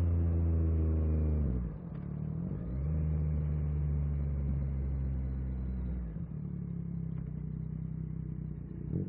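Yamaha MT-09 SP's three-cylinder engine with falling revs as the bike slows over the first second and a half. It then runs at a steady low speed, and the pitch drops once more about six seconds in.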